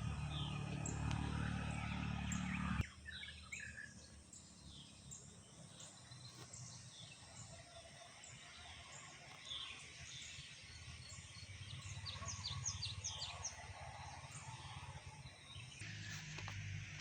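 Birds chirping and calling in the open, with a high chirp repeating about twice a second and a quick run of chirps later on. A low rumble cuts off abruptly about three seconds in.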